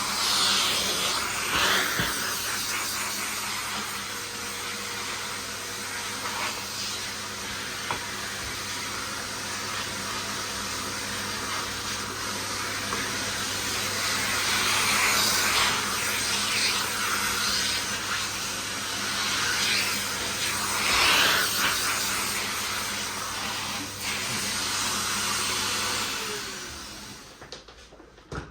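Miele vacuum cleaner running with a steady hiss and hum, swelling louder now and then. About 26 seconds in it is switched off and the motor winds down.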